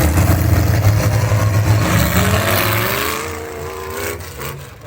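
A pulling truck's engine running hard at high revs, its pitch climbing from about two seconds in, then the sound falling away near the end.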